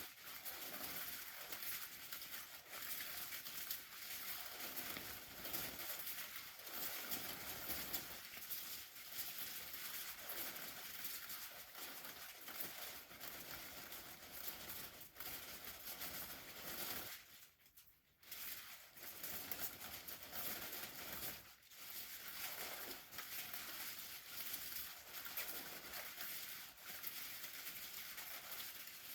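Continuous crinkling, pattering noise that dips out for about a second around seventeen seconds in.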